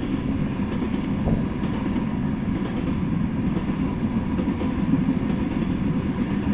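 A freight train of loaded open-top coal cars rolling past: a steady low rumble of steel wheels on the rails.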